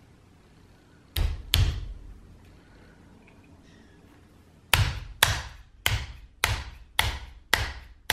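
Hand slapping the 3D-printed plastic suppressor shroud to tap it down onto the air rifle: two sharp knocks about a second in, then a run of about seven, roughly two a second, near the end. The parts fit so tightly that the suppressor has to be tapped to seat it.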